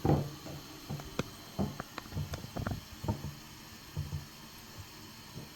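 Raw chicken pieces being dredged in flour by hand: irregular soft thuds and rustles with scattered light clicks, the loudest thump right at the start.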